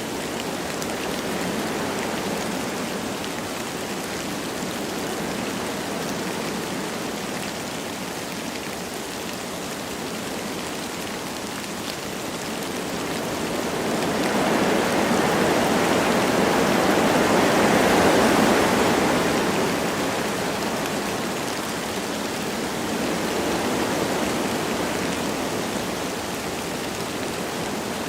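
Wind through forest trees with light rain, a steady rushing hiss. About halfway through a gust swells louder for several seconds, then eases off, with a smaller swell near the end.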